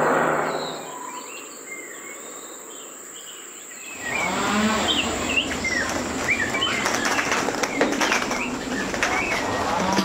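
Birds calling: faint chirps at first, then from about four seconds in a busy mix of many short chirps and whistles, opening with a low call that bends in pitch.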